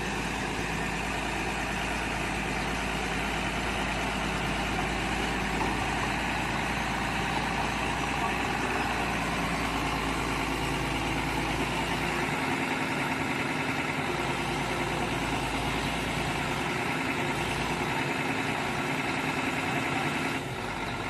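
Mini excavator engine running steadily, cutting off or dropping away near the end.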